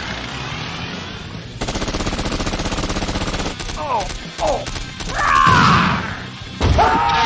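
Cartoon sound effects: a rapid, even rattle for about two seconds, then short gliding cries and two louder pitched calls near the end.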